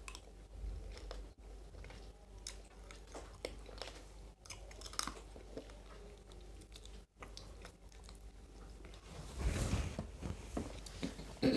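Close-up chewing and biting of people eating rice and snakehead fish curry by hand, with small wet clicks and smacks. A louder rustle comes about nine seconds in.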